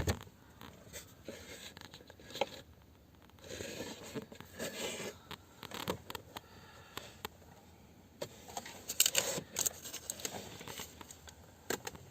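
Faint handling noise from hands moving among the car's dashboard parts: short scrapes, rustles and scattered clicks, busiest about nine seconds in.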